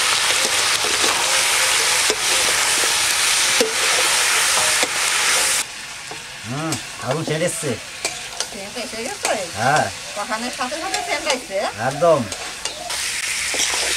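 Chicken pieces sizzling in hot oil with ground spices in a kadai, stirred through during the kashano (dry sauté) stage. About halfway through, the sizzle suddenly drops away. In the quieter stretch there are several short sounds that rise and fall in pitch, and the sizzle comes back near the end.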